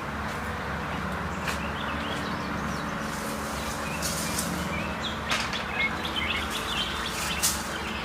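Small birds chirping in short calls through the second half, over a steady outdoor background, with a few sharp snaps and crackles.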